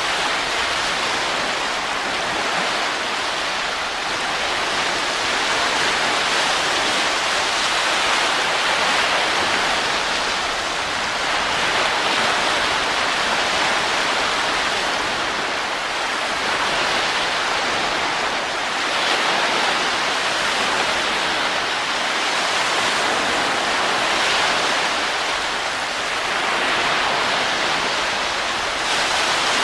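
Steady rushing wind, an even hiss that swells and eases gently every few seconds.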